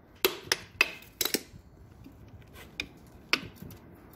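Hand tools working on engine nuts: a run of sharp, irregular clicks and knocks, about five in the first second and a half, then three more spaced out later.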